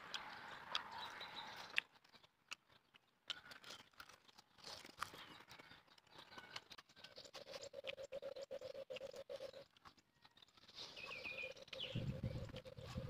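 Close-up eating sounds: a person chewing and smacking their lips, making many quick, sharp wet clicks. Near the end there is louder low handling noise as he picks at food with chopsticks.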